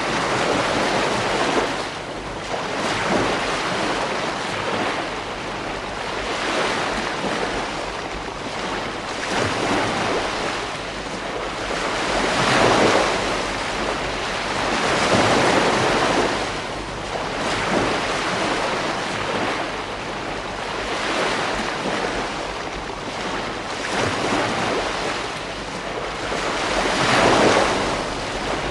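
Ocean surf: waves breaking and washing up a beach one after another, every few seconds, with wind noise on the microphone.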